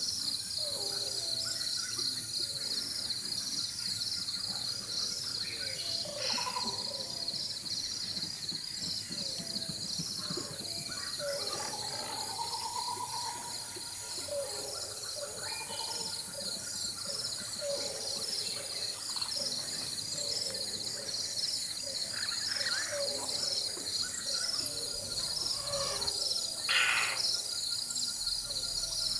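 Rainforest ambience: a steady, high-pitched, rapidly pulsing chorus of insects with a second, higher insect drone. Scattered bird calls and whistles sound over it.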